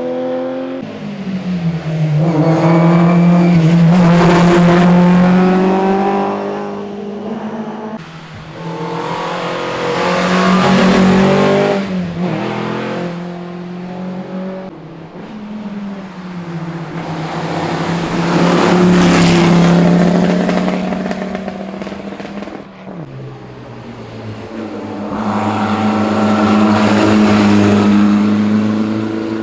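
Historic rally cars passing at speed on a closed stage, engines run hard with pitch changes between gears. There are four loud passes, each swelling up and fading away.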